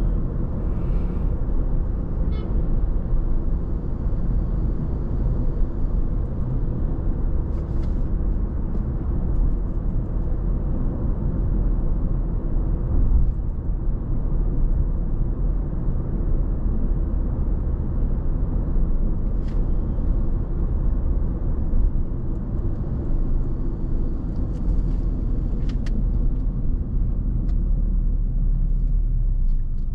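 Car driving at a steady pace: a continuous low rumble of engine and road noise, with a few faint clicks here and there.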